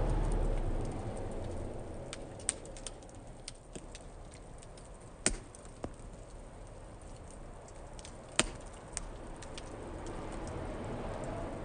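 Wood fire burning in a fire-pit stand, crackling and popping: three loud pops about three seconds apart among smaller ticks, over a low rush of flame that swells near the start and again near the end.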